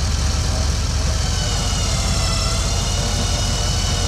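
A vehicle engine idling steadily, with a faint whine that shifts slightly in pitch about two seconds in.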